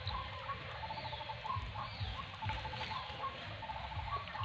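Birds calling in the background: a quick run of short repeated notes comes several times, with a few brief high falling notes between, over a low rumble.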